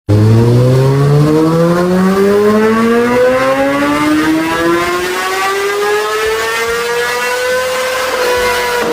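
Honda CBR1000RR inline-four engine in a full-throttle dyno pull, its pitch climbing steadily through the rev range for about eight seconds, then levelling off and starting to drop as the throttle comes off near the end.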